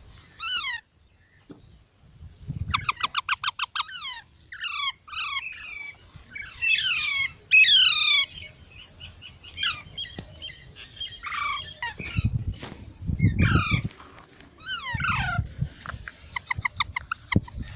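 Baby parrots calling: a string of short squawks that slide down in pitch, broken by two quick chattering runs of notes, one about three seconds in and one near the end.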